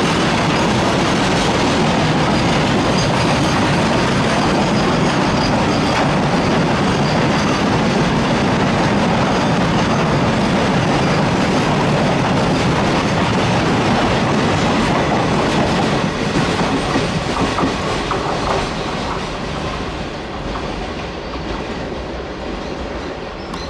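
Long freight train of flat wagons carrying lorries passing at speed: a steady rumble with the clickety-clack of wheels over the rails. It fades over the last several seconds as the end of the train goes by.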